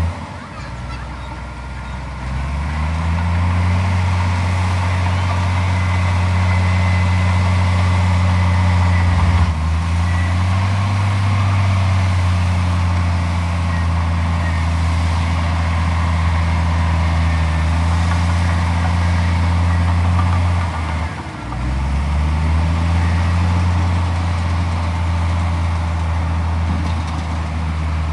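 Heavy diesel engine of earthmoving machinery running hard. It drops in pitch and revs back up about two seconds in, again briefly near ten seconds, and once more about twenty-one seconds in.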